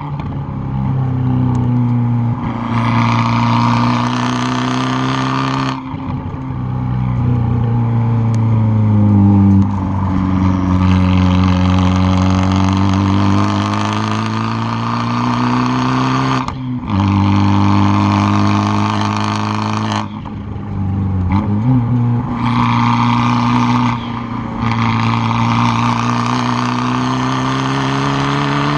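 Exhaust of a tuned 2013 Fiat 500 Abarth's turbocharged 1.4-litre four-cylinder, loud from just behind the tailpipes, pulling hard. The revs rise and fall continuously, and there are four brief dips where the throttle lifts or a gear changes.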